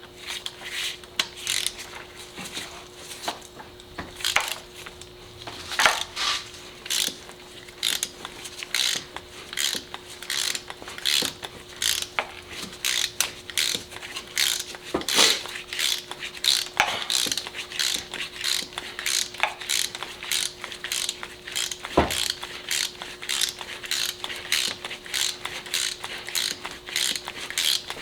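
Hand ratchet wrench clicking in a long run of quick, uneven strokes, about two to three clicks a second, as it is worked back and forth on the engine.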